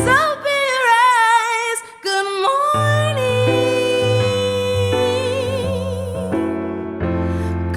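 R&B song with a female singer: a wavering line with wide vibrato, then one long held note from about three seconds in, over sustained chords and bass.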